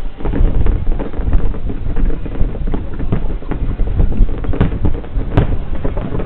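Fireworks going off: a dense run of pops and crackles over a low rumble, with two sharper bangs near the end, and wind buffeting the microphone.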